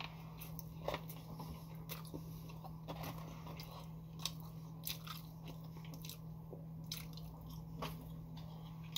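Close-miked chewing and biting of a McDonald's burger and fries: scattered short crunches and wet mouth clicks every second or so. A steady low electrical hum runs underneath.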